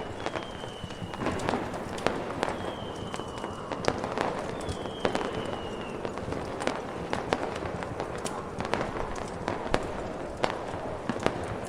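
Fireworks going off: a steady scatter of sharp pops and crackles over a constant rushing background, with three short whistles that fall slightly in pitch in the first half.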